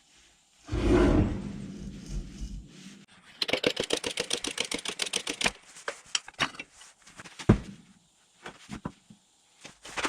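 Workshop handling noise: a heavy thud about a second in, then a quick run of sharp clicks lasting about two seconds, then scattered knocks, one of them louder.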